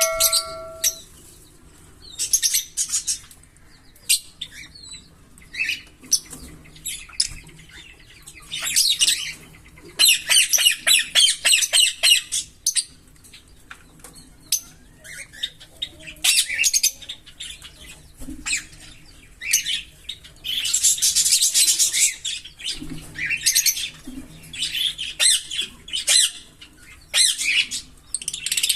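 A pair of green Fischer's lovebirds chirping and squawking in short high calls, with two runs of rapid chattering notes, the "giggles" of their song, each about two seconds long, one about ten seconds in and one about twenty seconds in.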